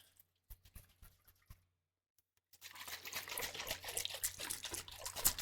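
Liquid worked close to the microphone: a few soft clicks, a brief hush, then from about halfway a continuous fizzy crackling of liquid, dense with tiny pops.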